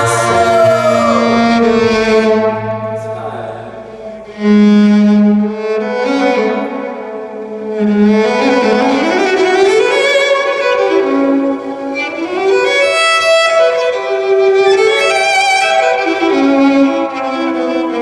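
Violin bowed in an instrumental break of a live song: long held notes with slides between them, one low note loud about four seconds in, and rising slides near the middle.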